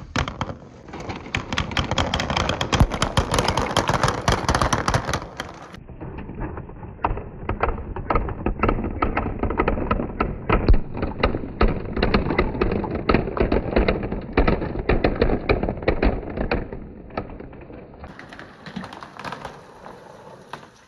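Marbles rolling and clattering down a marble-run track, a dense, rapid stream of clicks and knocks over a steady rolling rumble.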